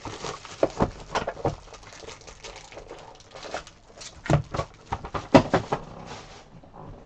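Card boxes and packs being opened by hand: plastic wrapping and foil packs crinkling and tearing in a quick string of sharp crackles and clicks, dying down near the end.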